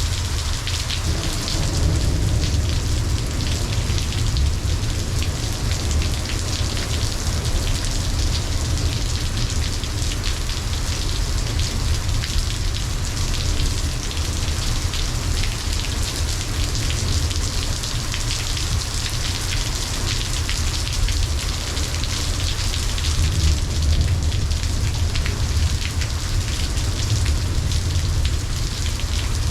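Steady rain falling and pattering on surfaces in a storm. A low rumble underneath swells a couple of seconds in and again near the end.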